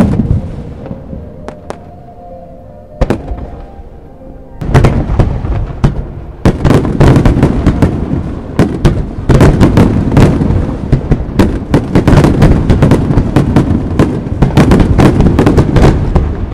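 Aerial fireworks shells bursting: a sharp bang at the start and a few single bangs over the next few seconds, then from about four and a half seconds in a dense, continuous barrage of overlapping bangs and crackles.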